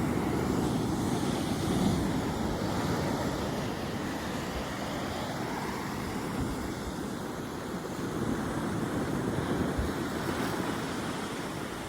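Heavy ocean surf breaking and rumbling, with wind buffeting the microphone; it swells about two seconds in and again near the end.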